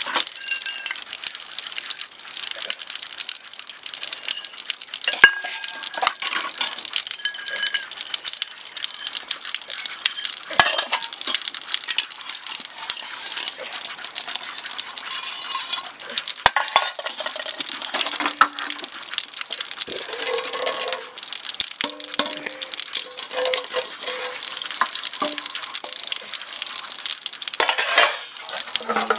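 Food sizzling and crackling in a hot pan, with frequent small clinks of utensils against the pan.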